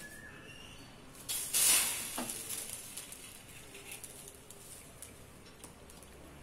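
An egg-dipped bread slice is laid on a hot flat tawa: a burst of sizzling about a second and a half in, then a fainter sizzle dying away.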